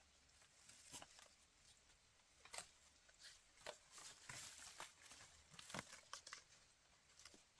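Faint, scattered small clicks and rustles, with a short run of rustling about four to five seconds in.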